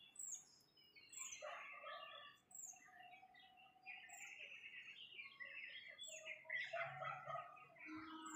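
Faint chirping and twittering of small birds: short, high, downward-sliding chirps about once a second over a busier, lower twitter.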